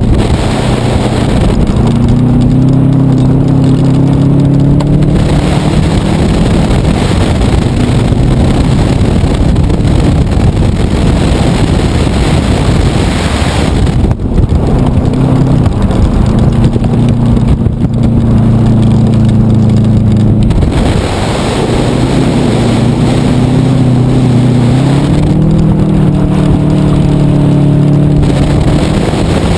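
Subaru WRX's turbocharged flat-four engine driven hard on a dirt track, in three long pulls where the engine note climbs steadily and then steps, with loud rushing noise in between. The microphone sits outside the car by the driver's window.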